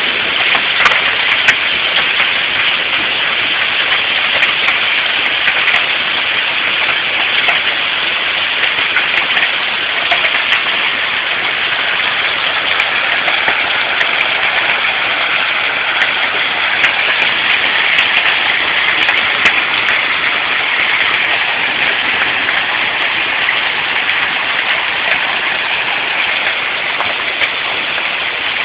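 Hail and heavy rain pelting down during a thunderstorm: a steady dense hiss of rain with many scattered sharp clicks of hailstones striking hard surfaces.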